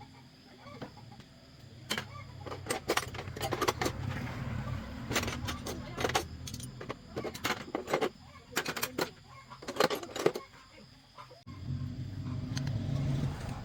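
A small motor hums steadily under a run of sharp metallic clinks and knocks. The hum cuts out about eleven seconds in and starts again a moment later.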